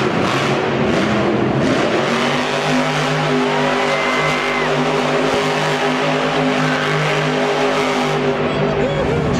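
Monster truck engine running loud and steady, its pitch holding level over a dense wash of noise.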